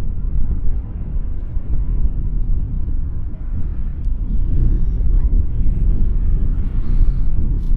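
Loud, steady outdoor rumble at an airfield, low and choppy, mixing jet aircraft noise with wind on the microphone.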